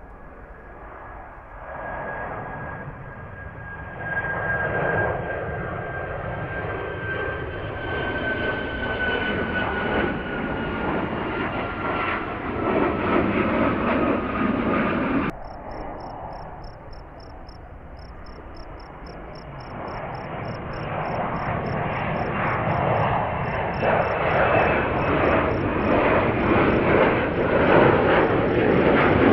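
Jet airliners taking off: the first one's engine noise carries a whistling whine that falls slowly in pitch. It cuts off suddenly about halfway, and a second jet's noise then builds steadily louder toward the end.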